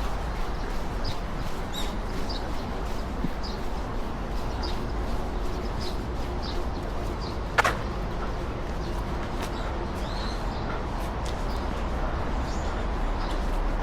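Steady outdoor rush with a low rumble, and small bird chirps repeating every second or so. One sharp click about halfway through.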